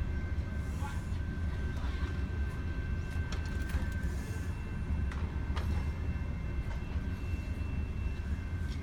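Long freight train of coal cars rolling past, a steady low rumble with a few sharp clanks scattered through it and a faint steady high whine above.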